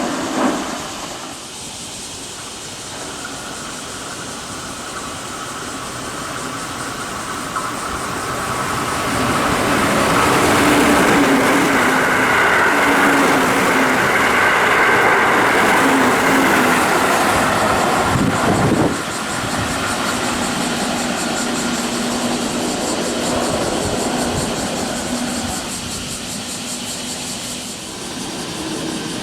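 Keihan 3000 series electric train passing at speed. Motor whine and rail noise build over several seconds and hold loud for about eight seconds, then drop off sharply as the train clears; a lower running noise carries on after.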